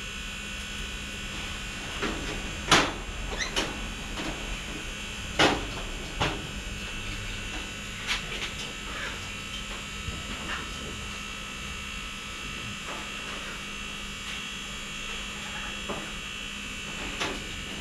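A steady electrical buzz, with scattered sharp clicks and knocks throughout; the loudest knocks come about three and five and a half seconds in.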